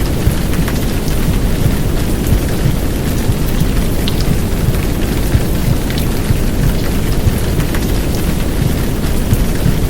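Heavy downpour rain: a dense, steady hiss with scattered drop ticks over a deep, even low rumble of simulated womb noise.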